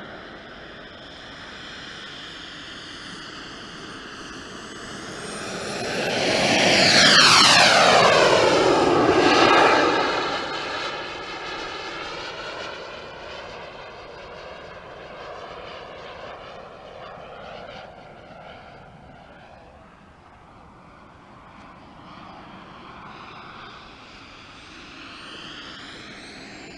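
Radio-controlled Eurofighter model jet flying past: its whine grows loud about six seconds in and drops steeply in pitch as it passes overhead, then fades as it flies off, with another approach rising near the end.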